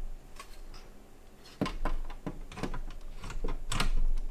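Side panel of a small PC case being handled and fitted: a run of light clicks and knocks starting about one and a half seconds in.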